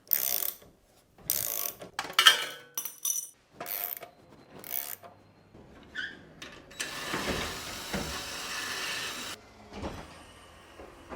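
Work removing the old seat from a vintage motorcycle: a run of short mechanical clicks and rattles, then a longer steady stretch of noise from about seven to nine seconds in.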